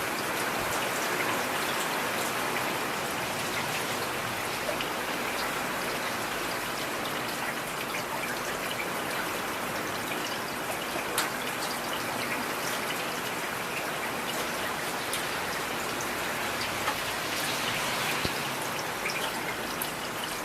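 Steady heavy rain, with many individual drops pattering.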